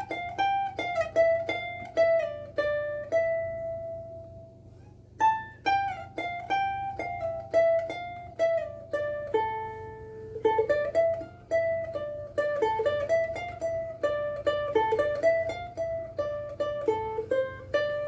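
Cocobolo soprano ukulele strung with higher-tension Oli Uke Logic strings, fingerpicked: a melody of single plucked notes that pauses briefly about four seconds in and then picks up again. The notes ring on with good sustain, even high up the fretboard.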